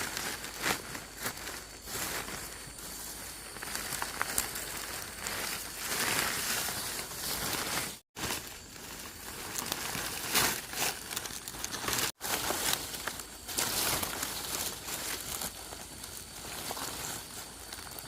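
Irregular rustling and crinkling with scattered crackles and clicks, like dry material being handled. It cuts out abruptly twice, about eight and twelve seconds in.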